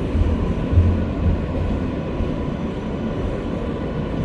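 An R143 subway train running with a steady low rumble under a faint steady whine, with a couple of low thumps about a second in.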